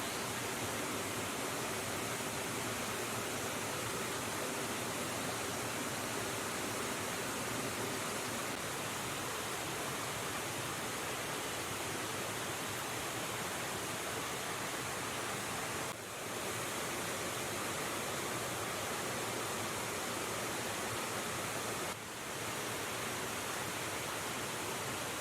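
Steady rushing of river water, an even hiss with no distinct events, dipping briefly twice.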